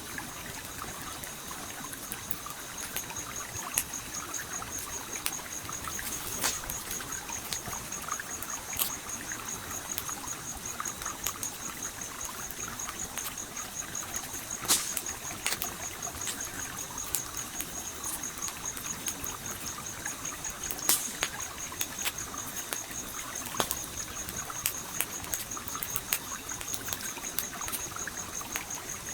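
Campfire crackling with scattered sharp pops over a steady flowing, trickling stream. A continuous high, fast-pulsing tone runs beneath them.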